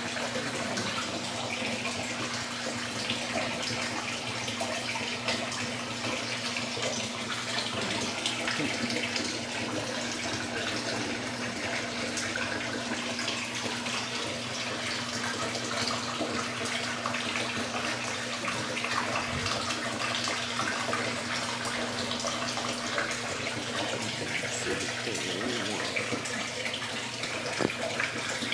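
Electrolux Turbo Economia LTE12 top-loading washing machine partway through its cycle: water rushing and splashing steadily in the tub, over a steady low hum.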